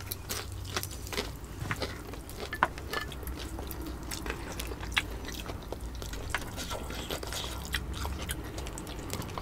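Two people biting and chewing fried fish, heard as close, irregular clicks of eating noise.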